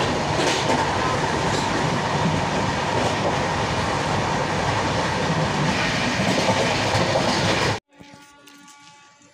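Passenger train running at speed, heard inside the coach: a loud, steady rumble and rattle of wheels on rail. The sound cuts off suddenly near the end.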